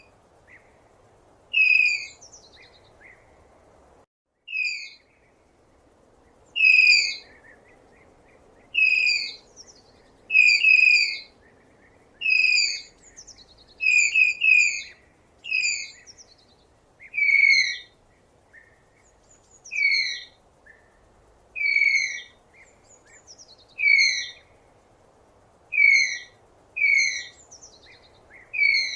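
Tapir giving repeated high-pitched whistling squeals, about one every one to two seconds. Each call is short and drops slightly in pitch, over a faint steady background hiss.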